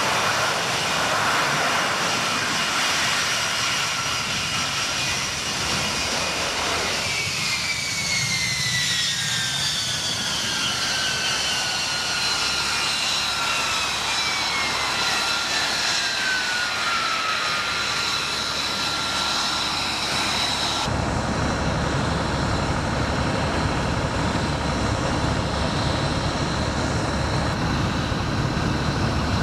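F-35B's turbofan engine running with a loud whine and several high tones; from about seven seconds in, the whine falls steadily in pitch for about ten seconds. About two-thirds of the way through, the sound switches abruptly to a lower, rougher rumble with less high whine.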